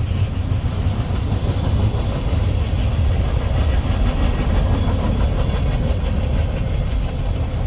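Freight train's cars rolling past at close range: a steady rumble of steel wheels on rail.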